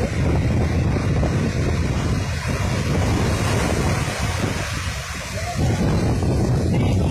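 Ocean surf breaking on the beach, with wind buffeting the microphone.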